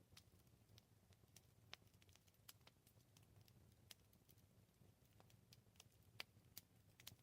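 Wood fire crackling faintly: irregular sharp pops and snaps over a low, steady rumble, the loudest pop about six seconds in.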